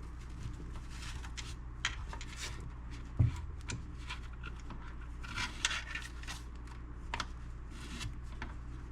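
Rubbing and light scraping of cleaning the inside of a stereo's front panel, broken by scattered small clicks and one sharper knock about three seconds in, over a steady low hum.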